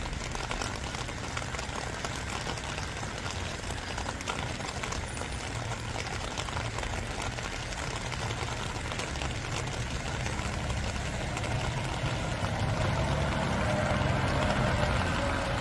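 Steady spring rain falling, with faint scattered drop ticks, and a low engine rumble beneath it that grows louder over the last few seconds.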